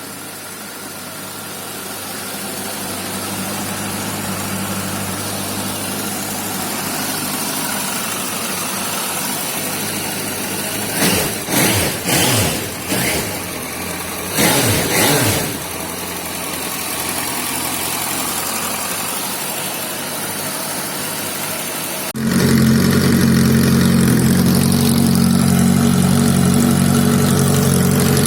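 Suzuki Bandit GSF 1250 inline-four motorcycle engine idling on its original exhaust, blipped through a handful of quick revs around the middle and settling back to idle. About three-quarters of the way through the sound switches abruptly to a louder, deeper idle: the same engine on a different, louder exhaust setup.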